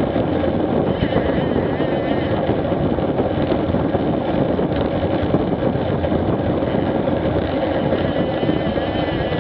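Street motorcycle engine running steadily, mixed with wind noise on the action camera's microphone.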